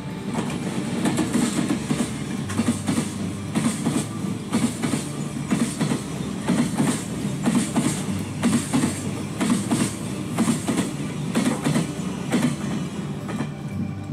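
A train running on the track, its wheels clacking over rail joints in a repeating, uneven rhythm over a steady rumble.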